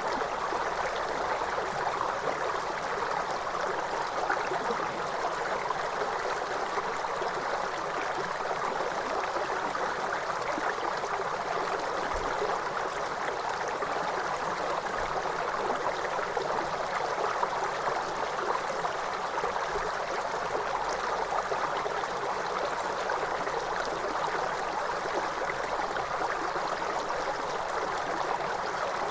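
Waterfall: a steady rush of falling and splashing water, even and unbroken throughout.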